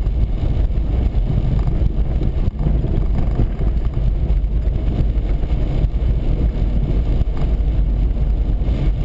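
Steady low rumble of a car driving along an icy highway, heard from inside the vehicle: engine and tyre noise with wind against the body.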